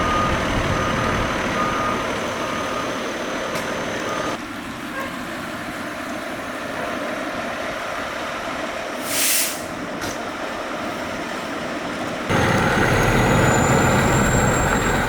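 A heavy truck's engine running, with its reversing beeper sounding repeatedly near the start and a short hiss about nine seconds in, like an air-brake release. The sound changes abruptly twice, near four seconds and about twelve seconds in.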